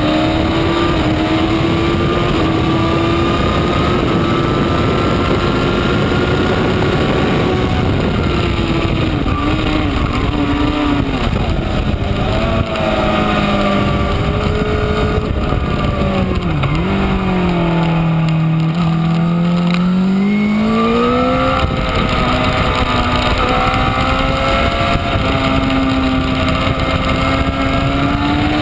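2012 Honda CBR1000RR inline-four engine running hard on track over heavy wind rush. The pitch holds high, falls as the bike slows for a corner just past halfway, then climbs again as it accelerates away.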